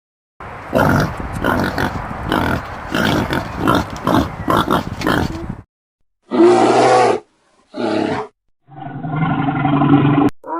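Animal calls: about five seconds of rough, rapidly repeated grunting roars, then two short separate calls and a longer call with a steady pitch that cuts off suddenly near the end.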